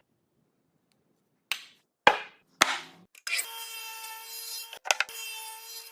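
Three sharp knocks about half a second apart, as of a tool striking wood. They are followed from just past halfway by a steady humming tone holding several fixed pitches, broken by a couple of brief clicks.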